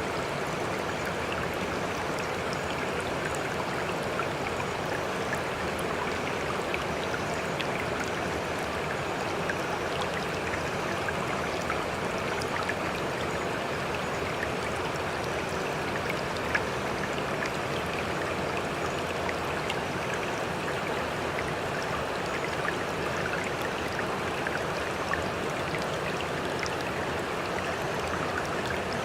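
Sea water rushing in a steady, even wash, with small drips and trickles scattered through it.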